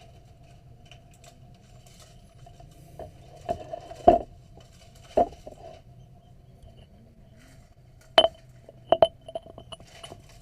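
Handling noise: scattered light knocks and clicks of small objects being moved and set down, a few around the middle and a quick cluster near the end, over a steady faint hum.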